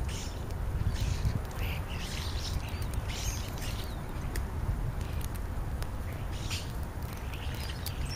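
A group of European starlings calling, with short calls scattered throughout, over a steady low rumble.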